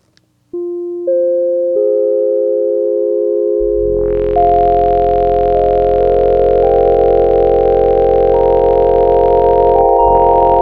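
Layered software synthesizer patch in Bitwig played as a sustained chord. Notes come in one by one over the first two seconds, a low layer swells in under them about three and a half seconds in, and more notes are added on top as the chord is held.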